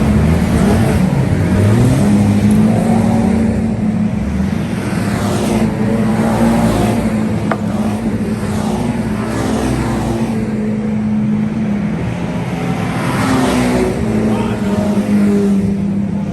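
Several 2-litre saloon stock car engines running hard on the track, revving up and down as the cars pass.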